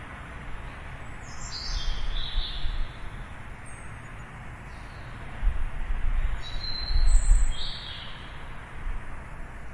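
Small birds chirping in two short phrases, each falling in pitch, about a second and a half in and again about six and a half seconds in. Under them runs a steady outdoor hum with a low rumble that swells near the second phrase.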